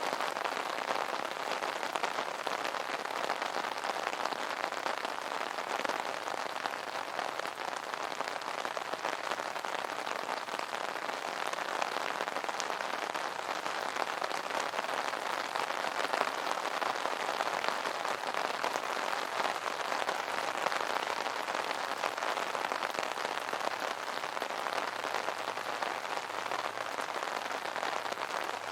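Steady rain pattering on an umbrella canopy: a dense, even patter of many fine drop hits.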